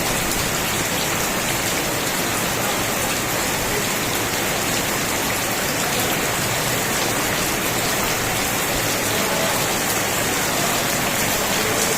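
Steady rain falling, a dense even hiss with many individual drops striking a surface.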